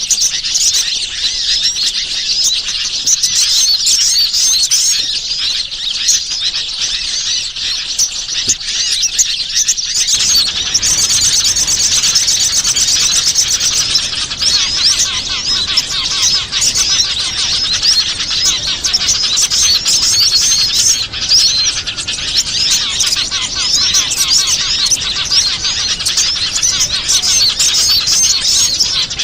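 Many small wild songbirds chirping and twittering at once in a dense, unbroken chorus of quick high calls, the kind of recording played as a lure to draw small birds in. About ten seconds in the recording changes and a fast, rapidly repeated trill stands out for a few seconds.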